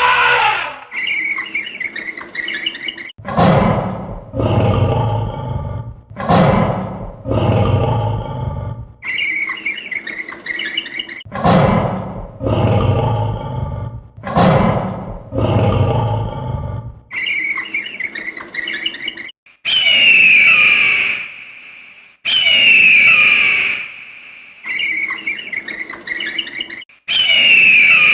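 A run of short recorded animal calls played one after another: several deep roars, then high-pitched squeals falling in pitch.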